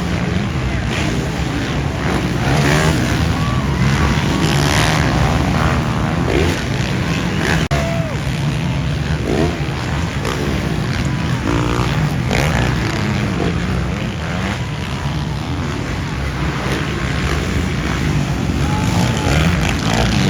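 Motocross dirt bikes racing on track, their engines revving up and down as they go by, with heavy wind noise on the microphone.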